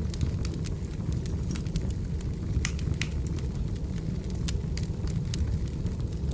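Wood fire burning steadily, with a low rumble and frequent irregular sharp crackles and pops.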